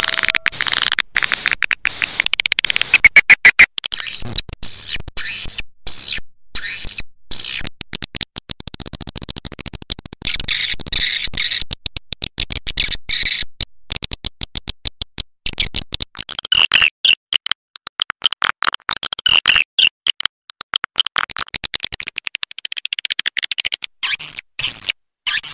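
Swiftlet call-sound recording: a dense chorus of swiftlets' rapid, high-pitched chirps and twitters, chopped into quick stuttering pulses with short gaps. It is the kind of lure track swiftlet farmers play to draw swiftlets into a nesting house.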